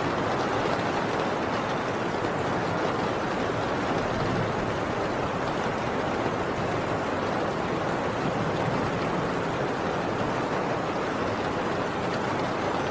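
Heavy rain pouring steadily on a tin roof, an even, unbroken hiss and patter.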